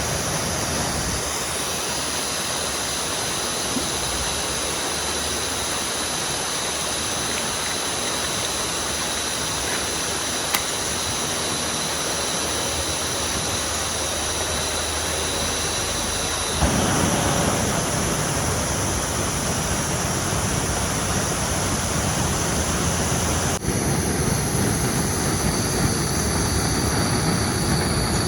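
Steady rush of heavy rain and flowing river water, with thin high steady tones above it. The sound changes abruptly about seventeen seconds in, growing louder and deeper, and shifts again about twenty-four seconds in.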